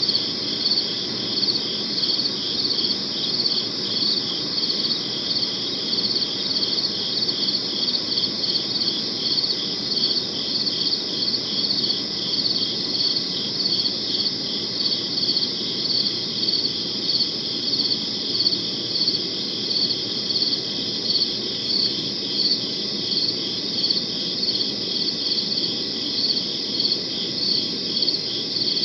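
Crickets chirping in a steady chorus, a high trill that pulses evenly about twice a second, with a faint low background hiss.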